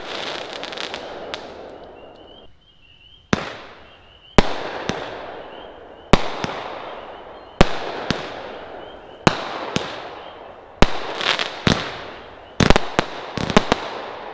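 Consumer firework cakes firing: sharp bangs about every second and a half, each trailing off in a rolling echo. Near the end several bangs come in quick succession.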